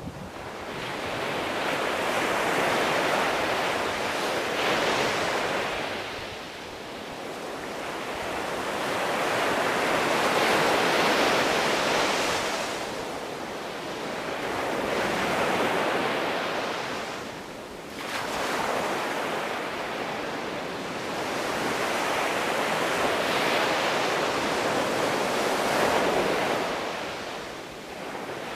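Sea surf: waves breaking and washing in, a steady rushing that swells and ebbs in about four slow surges.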